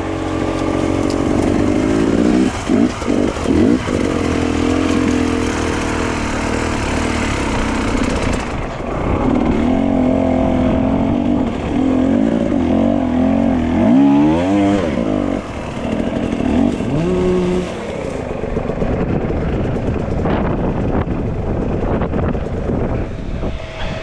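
Dirt bike engine running under riding load, its pitch rising and falling with the throttle and gear changes, with a sharp rev-up about fourteen seconds in.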